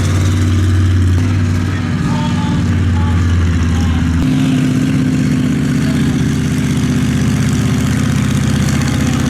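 Large vehicle engine running steadily at a low idle, its note changing to a higher, different pitch about four seconds in.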